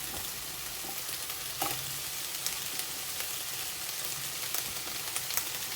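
Chicken and baby corn sizzling steadily in a hot stir-fry pan, with a few light clicks.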